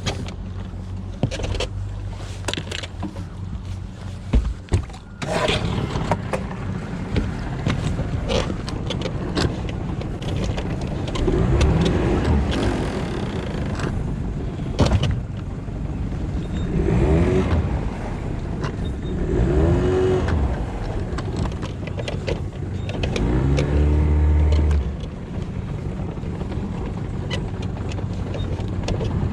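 An engine running steadily, revved up and back down several times, with scattered knocks and clicks.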